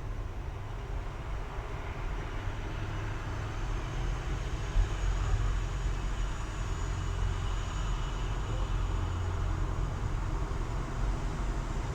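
Steady low rumble and hiss of workshop background noise, with a single short knock about five seconds in.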